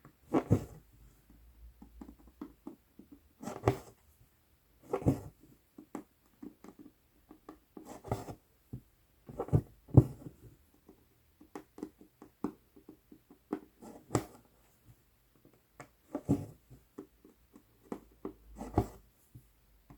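Needle and embroidery floss being pushed and drawn through 11-count Aida cloth in cross stitching: irregular soft pops and short rasps, roughly one every second or two.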